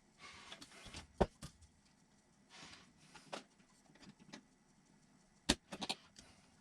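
Light rustling and small sharp clicks of hands handling tools and small parts while assembling an RC truck kit, with a sharp click about a second in and a quick cluster of clicks near the end.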